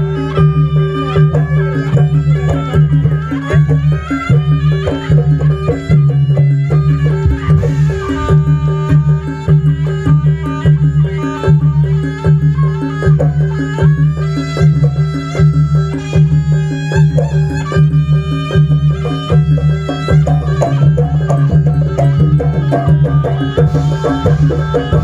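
Live jaranan buto ensemble music: busy hand-drumming with a melody line over a steady low drone, playing without a break.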